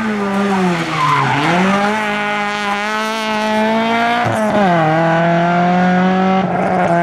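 Opel Kadett rally car's four-cylinder engine revving hard under full throttle. The pitch dips about a second in, then climbs again, and drops sharply at an upshift around four and a half seconds in before holding high revs.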